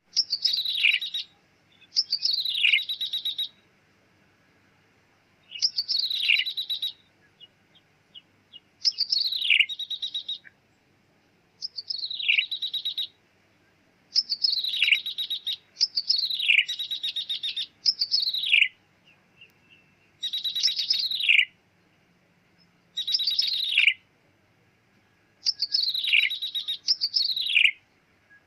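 Ciblek tebu, a prinia, calling over and over in a lure recording. Each phrase is a sharp falling note run together with a buzzy rattle, with short pauses between phrases.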